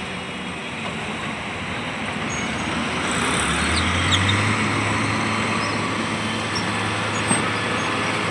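Motor vehicle noise: an engine running amid a steady rushing haze, growing louder about three seconds in as a low engine hum sets in and holds.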